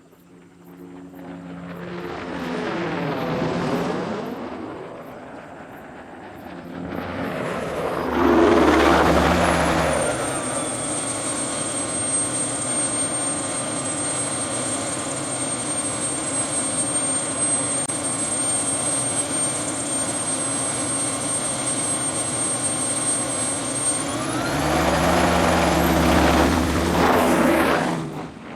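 Bell 206B-3 JetRanger helicopter, its Allison 250 turboshaft whining over the rotor noise. The sound swells and fades twice in the first ten seconds as the helicopter passes, then holds steady. The whine rises in pitch about three-quarters of the way through, and the sound cuts off suddenly near the end.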